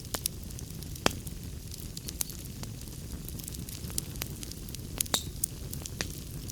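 Wood fire burning in a fireplace: a steady low rumble of flames with frequent sharp crackles and pops, the loudest about a second in and two close together around five seconds in.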